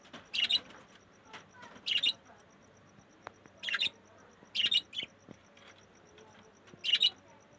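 Pet budgerigars chirping: about six short, sharp chirps spaced irregularly, a second or so apart.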